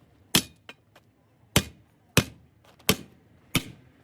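Hammer blows: five sharp strikes, irregularly spaced about half a second to a second apart.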